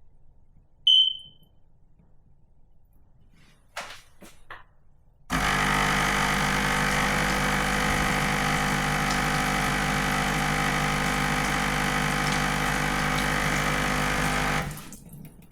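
Sage Bambino Plus espresso machine in its descaling cycle: a short high beep about a second in and a few clicks, then its vibratory pump runs with a steady buzzing hum for about nine seconds, pushing descaling solution through, and cuts off.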